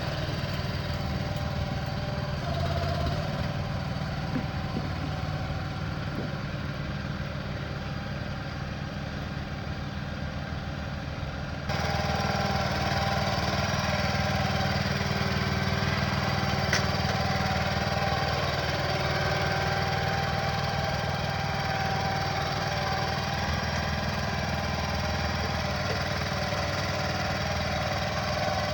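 Engine of the shed-delivery machinery running steadily; it steps up abruptly in level a little before halfway through and stays at that level.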